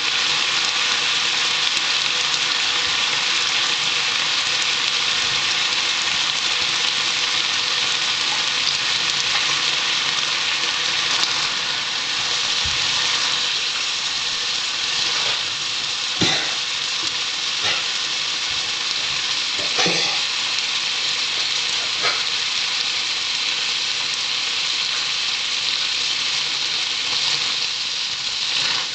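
Eggnog sizzling as it fries in a frying pan, a steady hiss throughout. From about halfway through, a spatula knocks and scrapes against the pan a few times.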